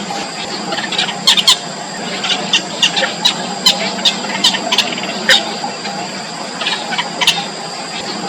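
Yellow bitterns at the nest giving short, sharp, squeaky calls, about fifteen at irregular intervals, over a steady high-pitched background hum.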